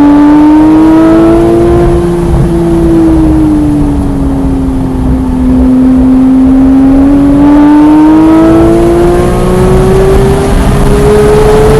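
Porsche 991.1 GT3's naturally aspirated 3.8-litre flat-six running hard on track. The engine note rises at first, drops through the middle as the driver comes off the throttle, then climbs steadily under full acceleration to the end.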